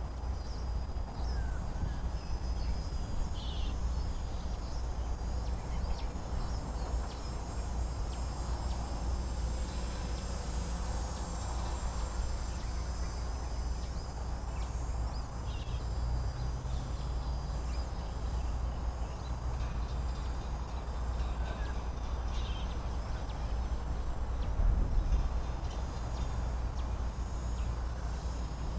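Wind buffeting the microphone in a steady low rumble that swells briefly near the end, with a few faint, thin high tones held throughout and a few short chirps.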